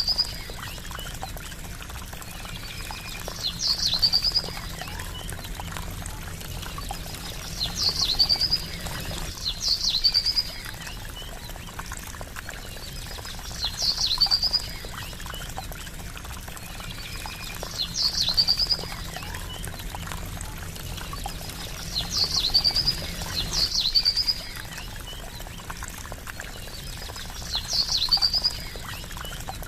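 Water trickling steadily while a songbird gives a short, high call with a brief trill, repeated about every two to four seconds, sometimes twice in quick succession.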